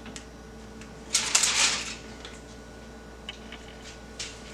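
Kitchen handling sounds during food prep: a short rustling scrape about a second in, then a few light clicks.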